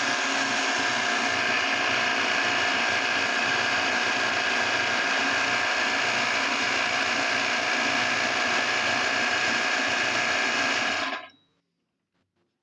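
Meat grinder running steadily as it works through chili mili jelly candies, a mechanical grinding drone that cuts off suddenly about eleven seconds in.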